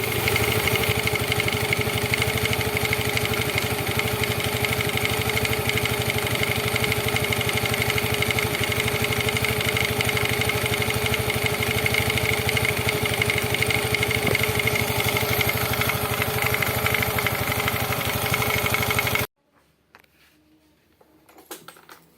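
Scooter engine running steadily, then cut off abruptly near the end.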